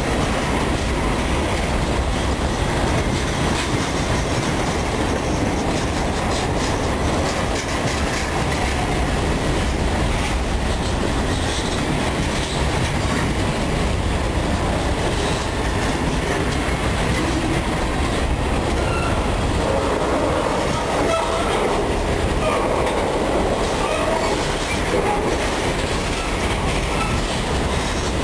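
Freight train of grain hopper cars rolling past, with a steady rumble and the clatter of wheels over the rails.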